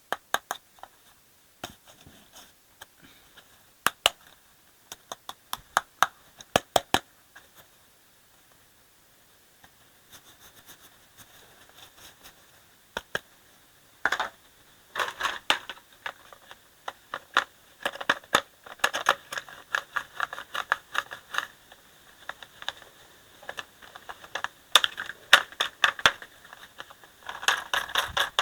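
Small hard plastic toy parts clicking and clattering as toy trucks are handled: scattered sharp taps at first, then denser runs of rattling over the second half.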